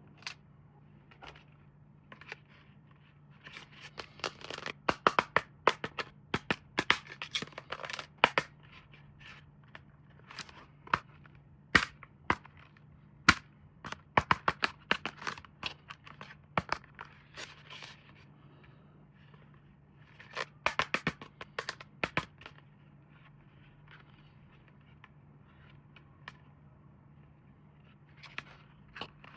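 Toy packaging being handled and opened by hand: irregular sharp clicks, crinkles and short tearing sounds coming in clusters, with quieter pauses between them. A faint steady low hum runs underneath.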